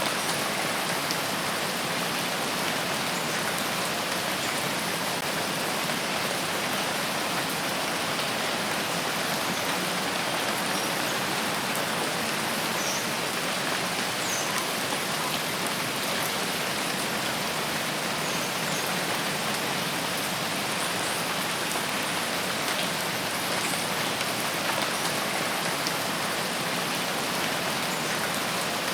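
Steady rain falling on forest foliage, an even hiss of many drops with no let-up.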